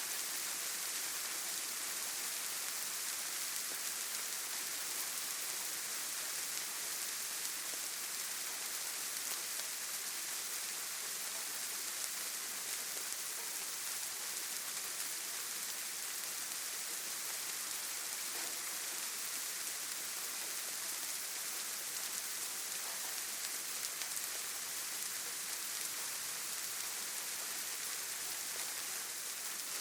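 Steady rain falling, an even hiss of many drops strongest in the high end, with faint individual drop ticks scattered through it.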